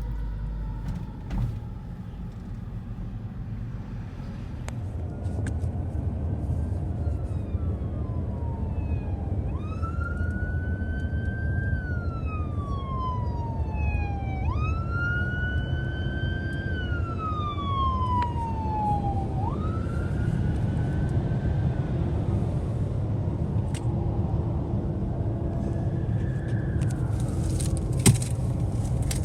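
Emergency vehicle siren sounding a slow wail: about five sweeps, each rising quickly and falling away slowly, growing louder toward the middle and then fading, over a steady low rumble of engines and traffic. A short sharp sound comes near the end.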